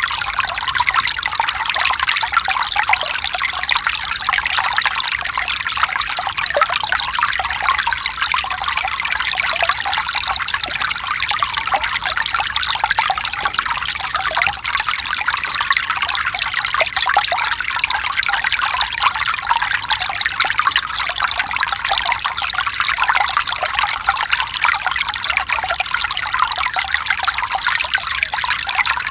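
Mountain stream running over rocks: a steady, unbroken rush of water, bright and hissy, with little low rumble.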